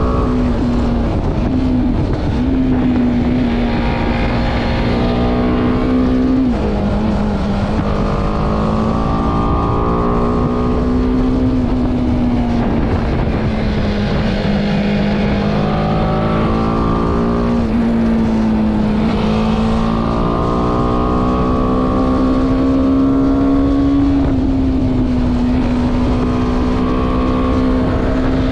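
BMW G310R's single-cylinder engine running under way, its note rising and falling with the throttle through the bends, with a sharp drop in pitch about six seconds in and a slow climb afterwards. Steady wind rush over the microphone sits underneath.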